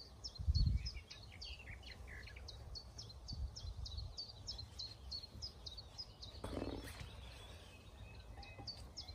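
A small bird singing a steady run of short high chirps, about three or four a second, with a dull low thump about half a second in.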